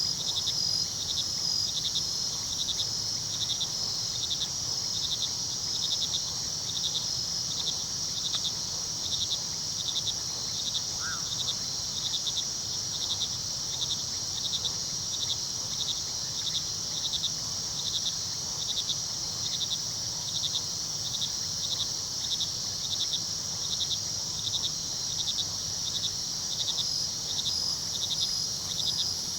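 Crickets chirping at night: a steady high trill with a second cricket's pulsed chirp repeating evenly a few times a second. A low, steady rush of river water runs underneath. One short call sounds about eleven seconds in.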